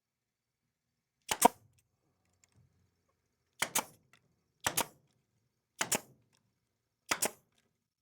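Five sharp double knocks on wood, each a quick pair of impacts, spaced about one to two seconds apart with silence between them.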